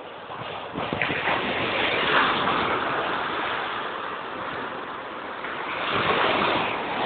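Big waves breaking in heavy surf, a steady wash of water noise that swells about a second in and again near the end.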